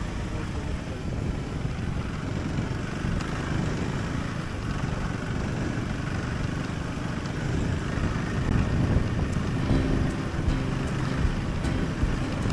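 Husqvarna Svartpilen 401's single-cylinder engine running steadily on the move, mixed with road and wind noise.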